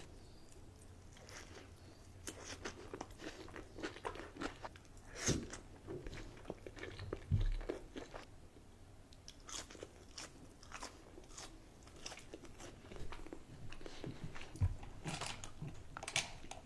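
A person biting and chewing fast food close to the microphone: irregular crunchy bites and wet chewing clicks.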